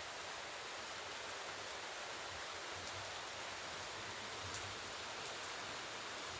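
Steady rainfall, an even hiss with a few separate drops ticking now and then.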